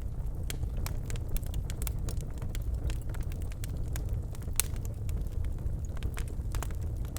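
Birch logs burning in a fireplace: frequent sharp, irregular crackles and pops over a steady low rumble of the flames.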